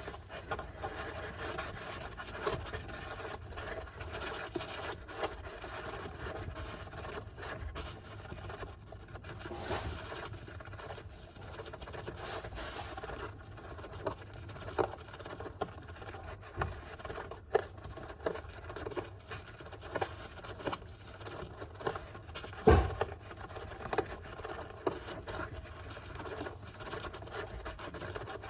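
A golden hamster scratching and digging in bathing sand: a continuous scratchy rustle with scattered small clicks, and one louder knock a few seconds before the end.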